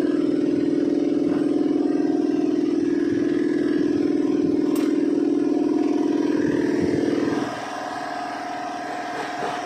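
Volkswagen Passat engine running after timing work, loud and steady, then dropping to a quieter, steady run about seven and a half seconds in.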